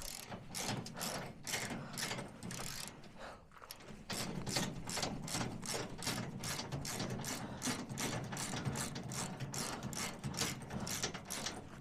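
Ratchet socket wrench clicking rapidly as a bolt is run in, about five clicks a second, with a short pause about three seconds in.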